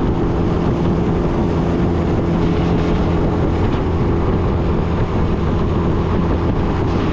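Boat motor running at a steady speed, its engine hum held at one pitch, with wind buffeting the microphone.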